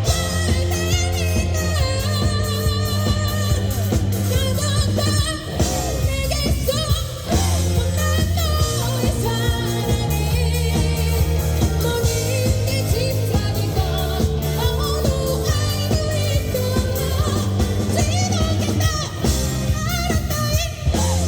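A live amateur rock band playing a pop song: a singer's voice with vibrato over amplified bass and a steady drum beat.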